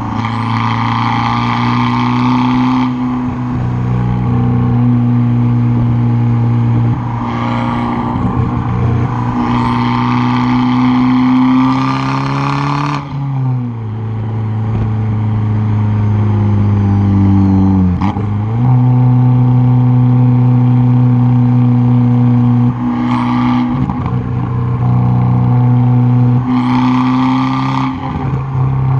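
Straight-piped, turbocharged 1.4-litre four-cylinder of a tuned Fiat 500 Abarth, heard close at the exhaust while driven hard. The engine note holds fairly steady between several sudden pitch changes at the gear shifts. A harsher rasp comes and goes with the throttle.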